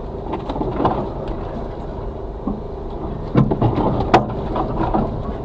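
Suzuki Carry kei truck's 660cc engine running at low speed, heard from inside the cab, with sharp knocks and rattles as it crawls over rough forest ground; the loudest knocks come about three and a half and four seconds in.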